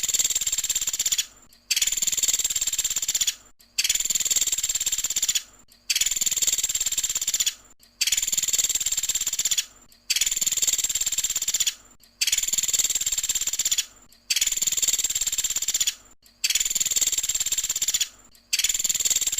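Pelatuk sampit woodpecker giving its rapid, high-pitched rattling trill (the 'tembakan' call), each rattle lasting about a second and a half with a short pause before the next, repeating evenly about every two seconds.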